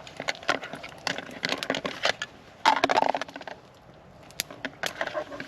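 Campfire crackling with quick irregular pops and clicks, mixed with the clatter and rustle of gear being handled, loudest in a short scuffing burst about three seconds in.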